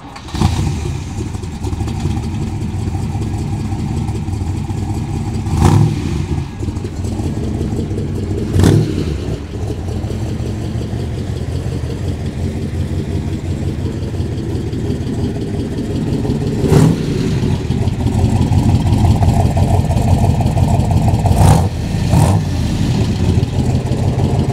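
1967 Corvette's 435 hp tri-power 427 V8 running through its side-exit exhaust with a lumpy, pulsing idle. The throttle is blipped in short revs about five times, and the engine gets a little louder over the last few seconds.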